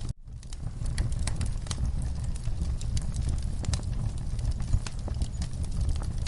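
Wood fire burning in a fireplace, crackling with scattered sharp pops over a low steady rumble. The sound cuts out for a moment just after the start.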